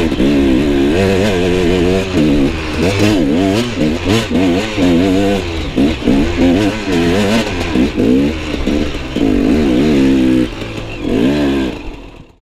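Enduro dirt bike engine revving up and down repeatedly under load, the throttle opening and closing every second or two, then cutting off abruptly near the end.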